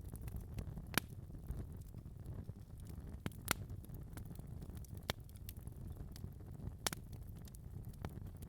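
Wood fire crackling in a fireplace: a low steady rumble of flames with scattered sharp pops and snaps, the strongest about a second in, twice around three and a half seconds in, and near five and seven seconds in.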